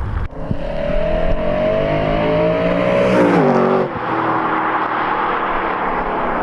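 BMW E92 M3's 4.0-litre V8 pulling hard, its pitch rising steadily for about three seconds, then falling sharply and running on steadily at a lower pitch.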